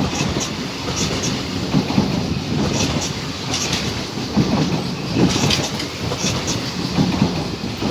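Train rolling through, its wheels clacking over rail joints in pairs about once a second over a steady rumble.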